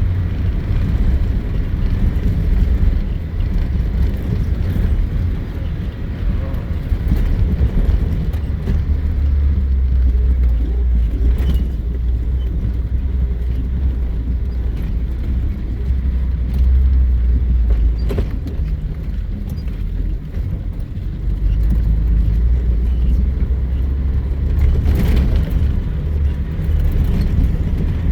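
A vehicle driving off-road: a steady low rumble of engine and tyres, broken by a few sharp knocks over bumps.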